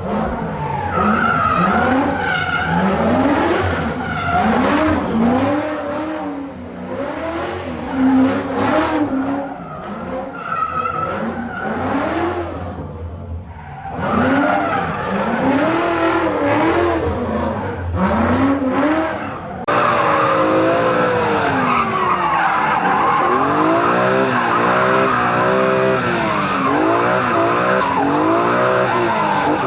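Drift car engines revving up and down again and again, with tyres squealing and skidding. About twenty seconds in, the sound cuts abruptly to a denser run of revving over a constant hiss of tyre noise.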